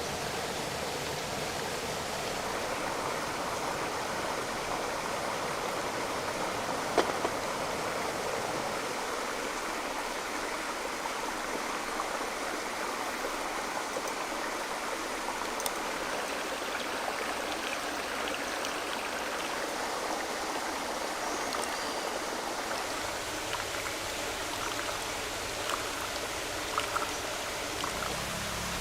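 Steady rush of running water, with a few sharp clicks about seven seconds in and again near the end.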